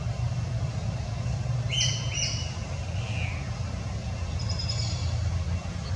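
Birds chirping: two short, high, flat chirps back to back about two seconds in, another a second later and fainter ones near the end, over a steady low rumble.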